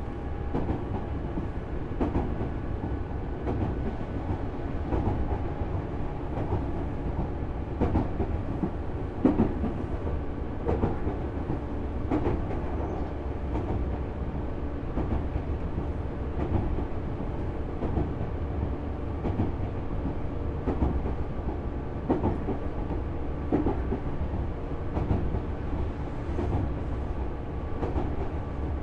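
Interior running sound of a Tobu Railway 6050 series electric train's motor car at steady speed: a constant low rumble with steady tones and the wheels clicking irregularly over the rail joints.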